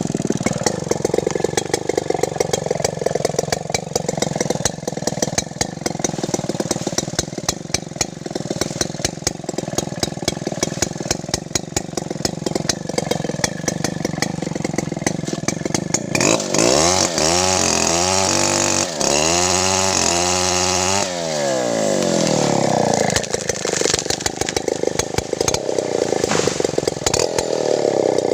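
Two-stroke chainsaw with CDI ignition running with a rapid ticking, which the owner calls very annoying. From about 16 s in it is revved up and down several times, then drops back to a steady run.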